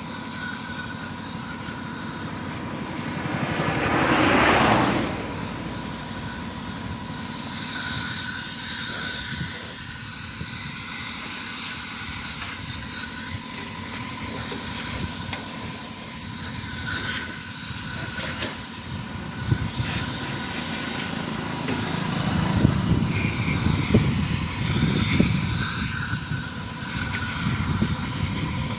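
Pressure washer spraying with a steady hiss, its motor running underneath. The spray swells louder about four seconds in and again, more unevenly with knocks, towards the end.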